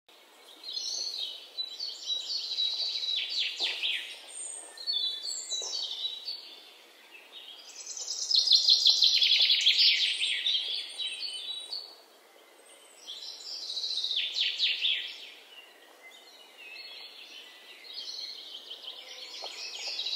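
Songbirds singing: repeated phrases of rapid high trills, each lasting a few seconds, with quieter gaps between them. The longest and loudest phrase comes about halfway through.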